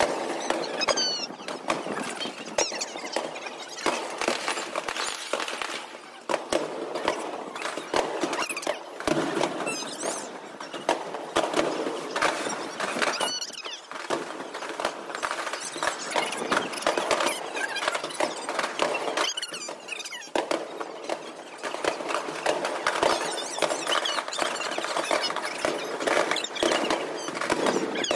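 Many aerial fireworks bursting together in a dense, continuous run of pops and crackles. Now and then a whistle glides in pitch above them.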